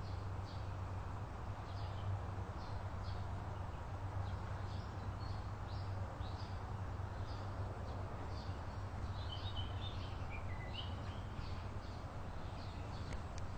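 Birds chirping repeatedly in short high notes, with a descending call about two-thirds of the way through, over a steady low hum and background noise.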